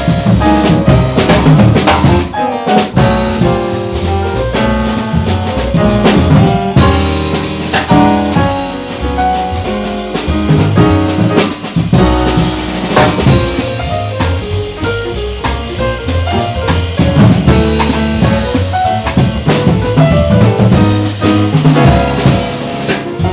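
Jazz piano trio playing: piano, bass and drum kit together, with the drums keeping up busy cymbal and drum strokes throughout.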